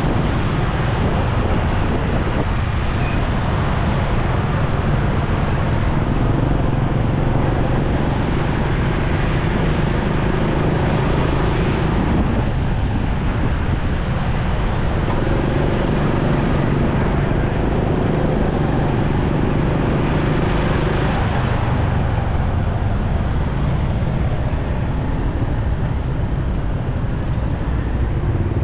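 Motorcycle riding in road traffic: a steady engine hum mixed with road and traffic noise, the engine note shifting briefly about halfway through and again near three-quarters of the way.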